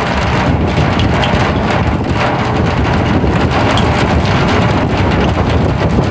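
Rain falling on the wet heads of two drums, a dense steady patter of drops splashing into the water pooled on the heads, over a deep rumble.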